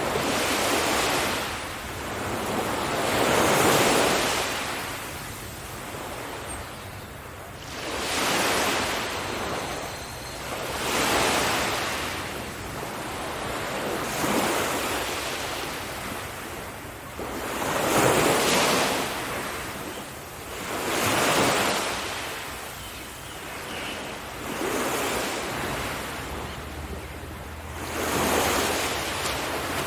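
Sea waves breaking on a beach and washing up the shore, each wave swelling and fading every few seconds, with some wind on the microphone.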